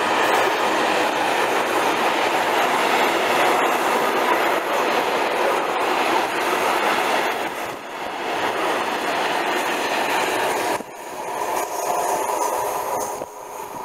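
Freight train of covered china clay hopper wagons rolling past at close range, a steady loud rolling noise. It drops away suddenly about eleven seconds in as the last wagons pass and move off.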